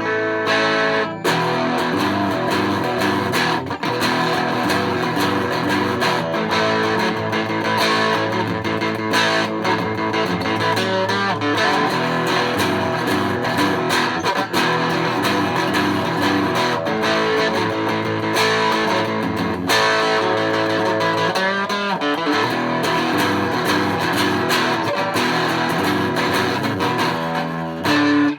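Old Japanese electric guitar played continuously, ringing chords and single notes, its tremolo block weighted with added metal for longer sustain and deeper notes. A wavering, bent note comes about two-thirds of the way in.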